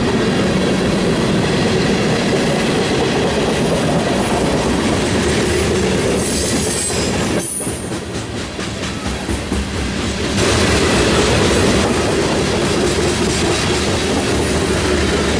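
Freight cars of a BNSF manifest train rolling past, with wheels clacking over the rail joints and some wheel squeal. The sound is loud and continuous, easing for a couple of seconds midway before picking back up.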